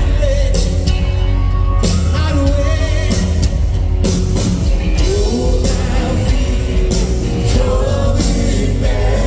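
Rock band playing live: drums, guitars and heavy bass under a sung voice with gliding held notes.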